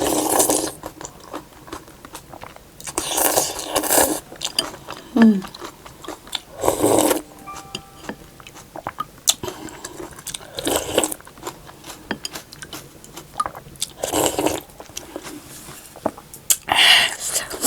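Close-miked eating sounds from someone eating hot food: chewing and mouth clicks, broken about every three seconds by a louder mouth sound lasting about a second.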